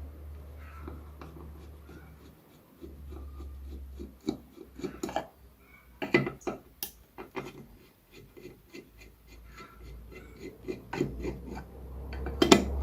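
Small metal parts and hand tools clinking and tapping against each other in irregular bursts, with some rubbing and scraping, during work on an old drill press; a sharp cluster of knocks near the end is the loudest.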